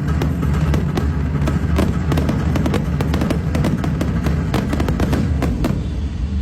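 Fireworks going off in quick succession, a dense run of sharp bangs and crackles over a low rumble, with background music; the bangs stop near the end.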